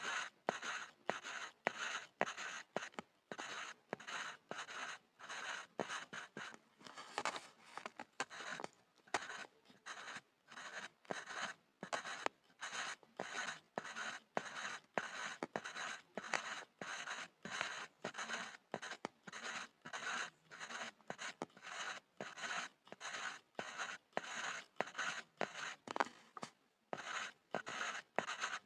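Graphite pencil scribbling on a board: quick rhythmic scratchy strokes, about two or three a second, each separated by a brief pause.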